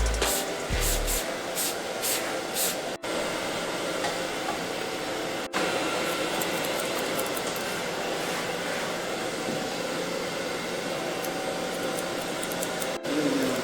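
Hair dryer blowing steadily, cutting out for an instant three times. Background music with a beat fades out about a second in.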